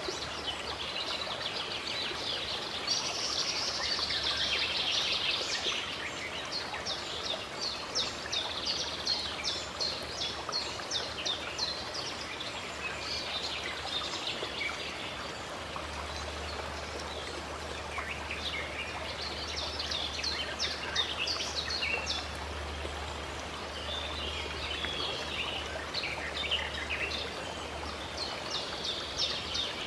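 Running water from a spring or fountain, a steady rush, with birds singing over it in quick repeated chirps that come in bursts and lulls.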